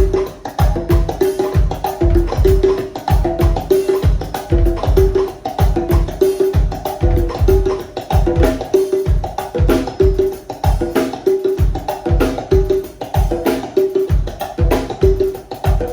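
Conga drums played in a quick, repeating rhythm, ringing open tones at two pitches, over a steady low thudding beat.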